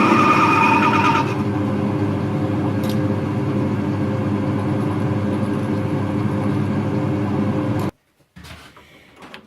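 A machine motor runs steadily, with a high-pitched whine over it for about the first second. It cuts off abruptly near the end, followed by a few light knocks.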